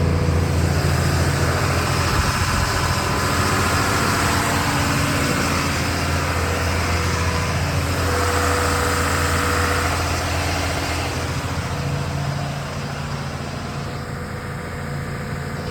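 The Mekong slow boat's inboard engine running steadily, heard up close as a loud, even low hum, a little quieter over the last few seconds.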